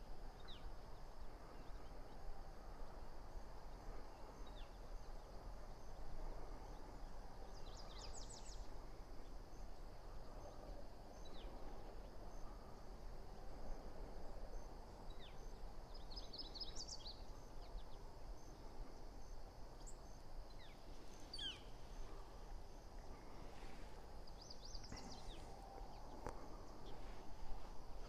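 Quiet outdoor ambience with a few brief clusters of high, quick bird chirps at irregular intervals over a faint steady background hiss.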